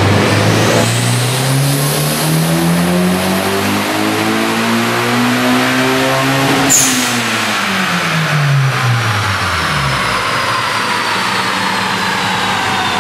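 Turbocharged Honda K20A2 four-cylinder engine in a 2003 Civic Type R, rising in revs under load in one long pull for about seven seconds. At the top the throttle closes with a short sharp hiss, and the revs fall away while a high whine winds down slowly.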